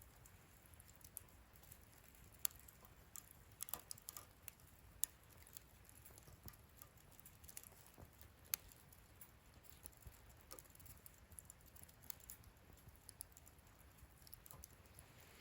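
Wood fire in a fire pit crackling quietly: scattered sharp snaps and pops over a faint hiss, with a quick flurry of them about four seconds in.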